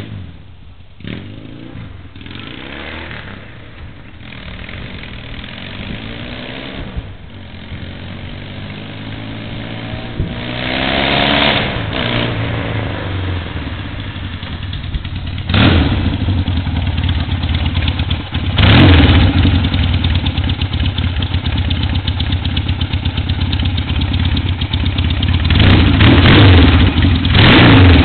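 1975 Yamaha XS650's parallel-twin engine approaching and growing steadily louder, its pitch rising as it is revved up about a third of the way in. It ends idling close by, with a few quick throttle blips near the end.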